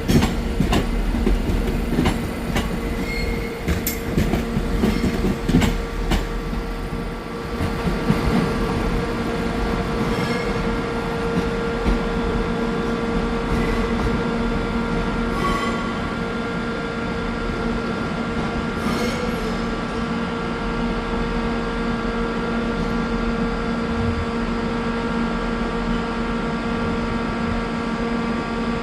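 A train running on the track, its wheels clicking repeatedly over rail joints for the first few seconds, over a steady hum that runs on throughout. There are a few brief high wheel squeals later on.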